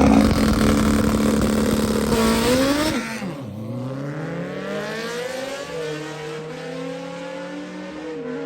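Drag-racing motorcycle engine held at steady revs, rising, then accelerating away down the track, its pitch climbing and stepping down at each upshift as it gets quieter.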